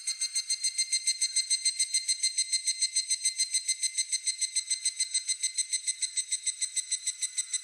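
Higurashi (evening cicada) calling: a rapid, even run of high ringing pulses, about eight a second, beginning to fade near the end.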